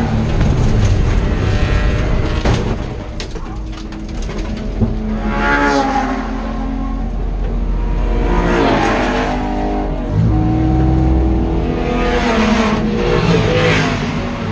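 BMW E30 race car engine heard from inside the stripped cabin, its revs rising and falling several times as it pulls and changes gear. There is one sharp knock about five seconds in.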